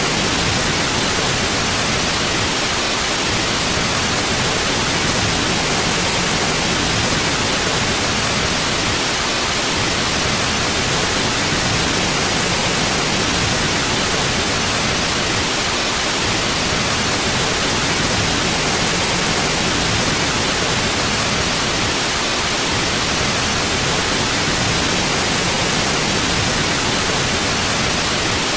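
Continuous white noise: a steady, even hiss with no change.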